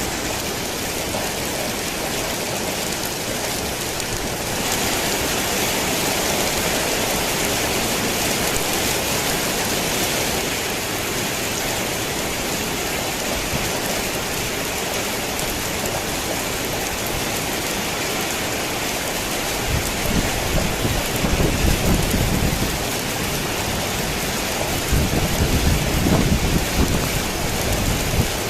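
Steady rain falling on a tin roof, growing heavier about four and a half seconds in. Thunder rumbles low twice near the end.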